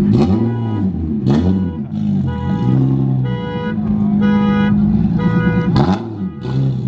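Car alarm sounding, cycling through a repeating pattern of steady beeping tones and up-and-down wailing sweeps, set off by a loud car revving nearby. A few sharp bangs cut through it, one right at the start, one about a second and a half in and one near the end.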